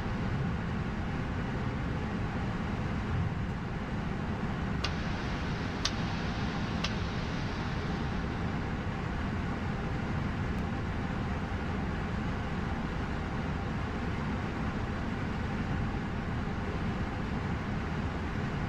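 Steady cockpit rumble and hiss of an Airbus A220-100 taxiing onto the runway with its Pratt & Whitney PW1500G geared turbofans at idle. Three light clicks come about a second apart roughly a third of the way in.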